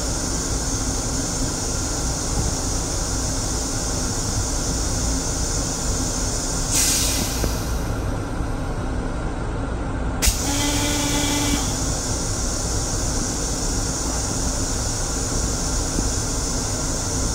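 Running noise of a Metro-North M7 electric railcar heard inside its restroom: a steady low rumble with hiss. About seven seconds in there is a brief rush of air, and about ten seconds in a click is followed by a short pitched tone lasting a little over a second.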